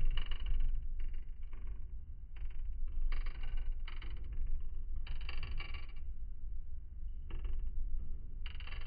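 Wood fire in a fireplace crackling: irregular clusters of short pops and crackles every second or so over a steady low rumble.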